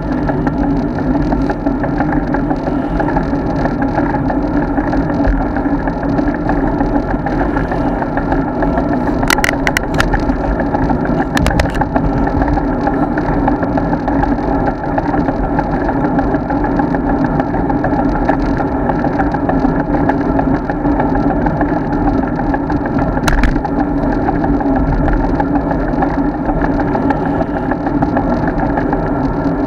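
Steady wind and road rumble from a road bike being ridden, as heard by a camera mounted on the bike, with a few sharp clicks or knocks partway through.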